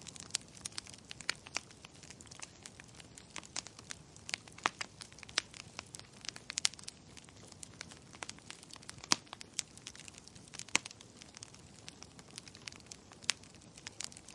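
Wood fire burning with steady, irregular crackling and sharp pops of burning logs, a few louder pops about nine and eleven seconds in.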